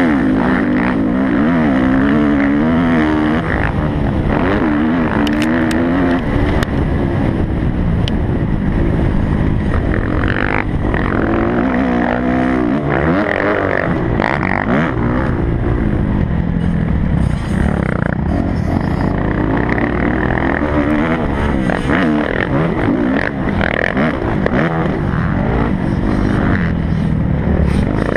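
Kawasaki motocross bike engine being ridden hard, its pitch climbing and dropping over and over with the throttle, heard close up from a GoPro mounted on the bike or rider.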